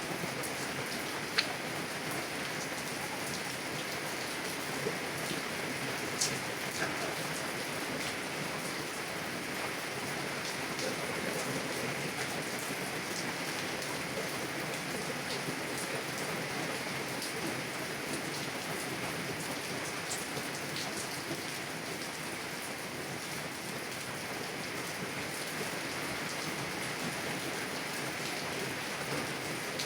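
Heavy rain drumming steadily on a car's window and body, heard from inside the car, with a few sharper single drop ticks, the loudest about a second and a half in.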